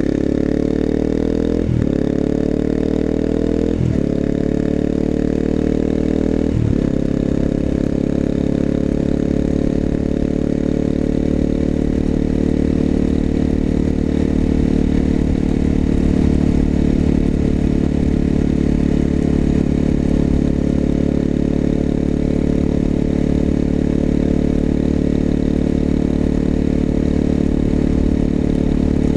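Exhaust of a 250cc single-cylinder four-stroke motorcycle fitted with an aftermarket muffler, accelerating through the gears. Three upshifts come in the first seven seconds, each a brief break followed by a drop in pitch. After that the engine holds a steady pitch at cruising speed.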